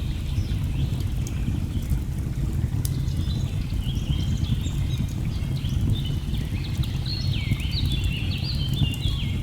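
A steady low rush of falling water under birdsong: quick high notes that step up and down in pitch, growing busier in the second half, with scattered small crackles of a burning log fire.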